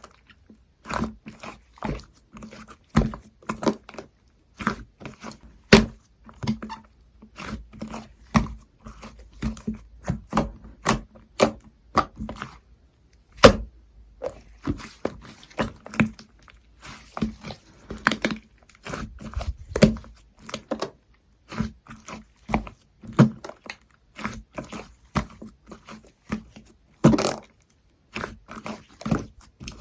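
Slime being pressed and stretched by hand, giving an irregular run of sharp sticky clicks and pops, about two or three a second.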